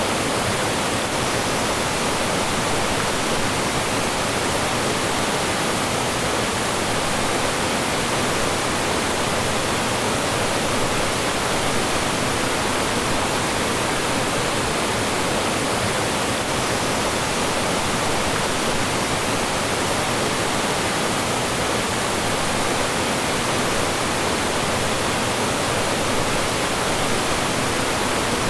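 Mountain stream rushing over rocks and small falls, a steady, loud, unbroken rush of water.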